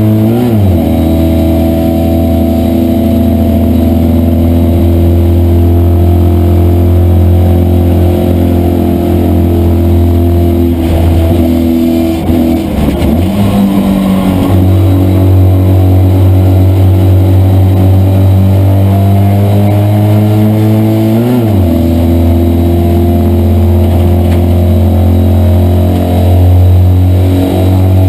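Citroën 2CV race car's air-cooled flat-twin engine running hard, heard from inside the car, its pitch climbing slowly in each gear. The note drops sharply with a gear change just after the start and again about three quarters of the way through, and breaks up briefly about halfway through.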